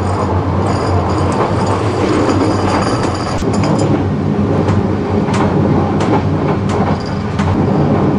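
Passenger train running along the track, heard from inside the carriage. The wheels make a steady rumble, with irregular clacks over the rail joints.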